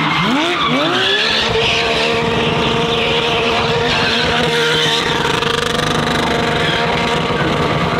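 Porsche 911 GT3 R race car's flat-six revved in quick blips near the start, then held at steady high revs with the rear tyres spinning and squealing in a donut.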